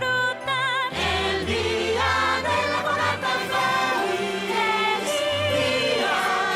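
Festive song: a choir singing with full instrumental backing. A held note with vibrato leads in, and the full ensemble comes in about a second in.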